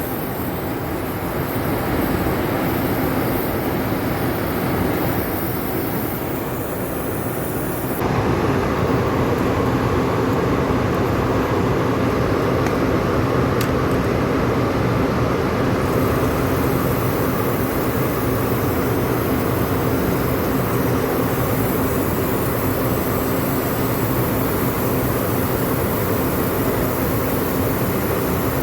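Steady machinery drone with a low hum running under it. It turns abruptly louder and fuller about eight seconds in.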